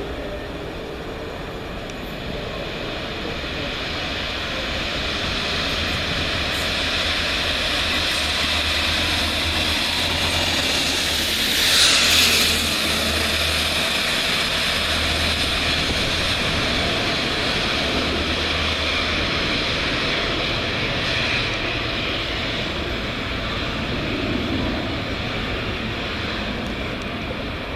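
Electric passenger train running into the station and along the platform, with a continuous rumble and hum and one brief, louder high-pitched burst about twelve seconds in.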